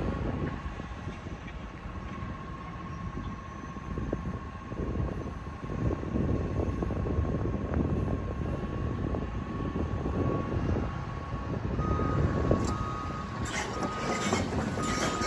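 Heavy demolition machinery at work: a dense rumble with crunching and cracking of debris. About twelve seconds in, a backup alarm starts beeping at an even pace.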